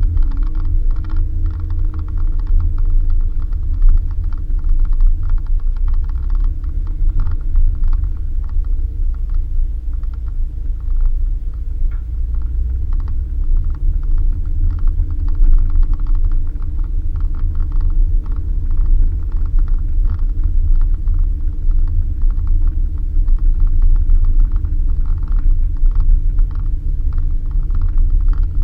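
Suzuki Jimny driving on a dirt road: a steady engine drone over a heavy low rumble from the road, with constant small rattles and clicks.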